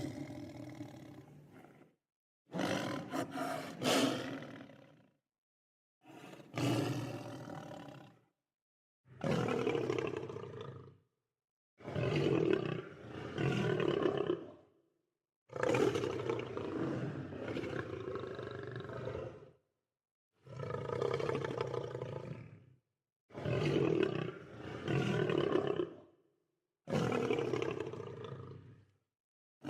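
Lion roaring: a series of about nine separate roars, each two to four seconds long, with dead silence between them.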